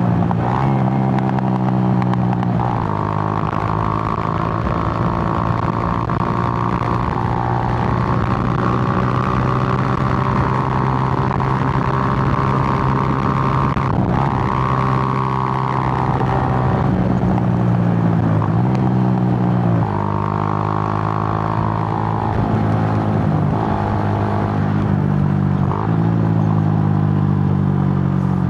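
Suzuki GN125's single-cylinder four-stroke engine running under way. Its note holds steady for stretches and then steps and glides up and down several times as the throttle and gears change.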